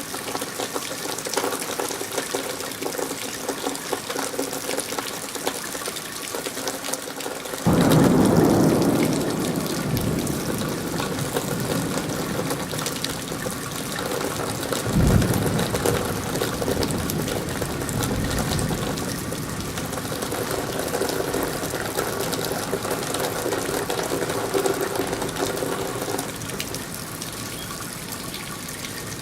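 Steady rain falling, with many small drops ticking and splashing. About eight seconds in, a louder, lower rush starts abruptly and fades over a few seconds, and a short low thump comes about halfway through.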